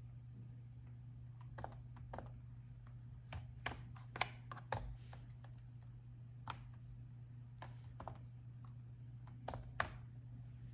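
Laptop keyboard being typed on in short, irregular runs of keystrokes with pauses between them, over a faint steady low hum.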